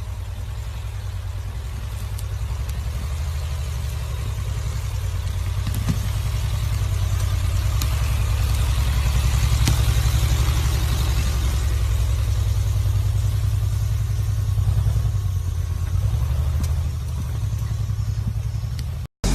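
Lifted pickup truck's engine running with a deep, steady rumble, building gradually in loudness to a peak partway through and easing off again near the end.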